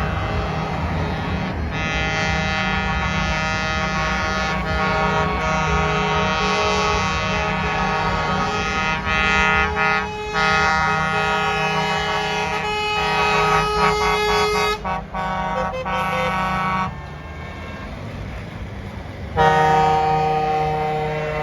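Truck air horns sounding in long held blasts over a steady engine rumble. The horns break off for a couple of seconds near the end, then sound again.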